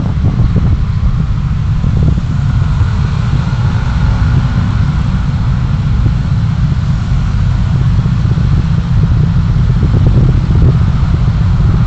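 Steady low rumble of a vehicle on the move: road and wind noise, with a faint steady high tone.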